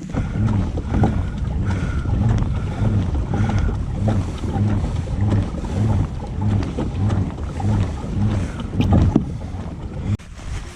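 Pedal drive of a Native Slayer Max Propel kayak whirring as it is pedalled, its pitch rising and falling about twice a second with each pedal stroke, with wind noise on the microphone.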